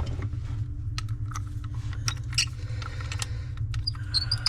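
Scattered light clicks and taps of tools and metal faucet fittings being handled, over a steady low hum.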